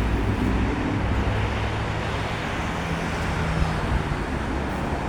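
Strong wind buffeting the microphone: a steady, rushing rumble.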